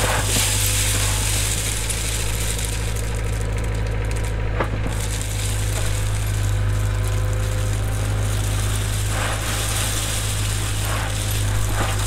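Cat 307 excavator's diesel engine running steadily, with light rattling and a couple of sharp metallic knocks from the machine at work.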